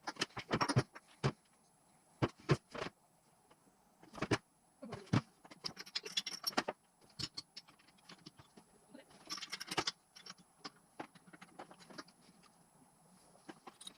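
Metal tools and engine parts clinking, tapping and scraping by hand during engine assembly: irregular sharp clicks and knocks with brief rattling clusters and quiet gaps between.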